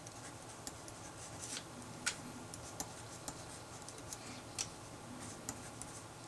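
Writing by hand on paper: irregular light taps and short scratches of the writing tip, one sharper tap about two seconds in, over a faint steady room hum.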